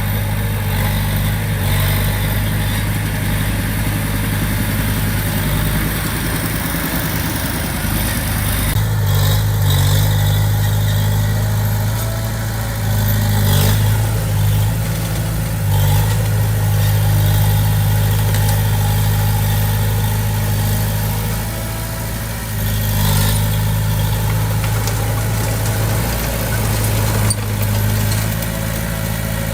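Komatsu D20P bulldozer's diesel engine running steadily, its pitch shifting now and then, with a few short knocks through it.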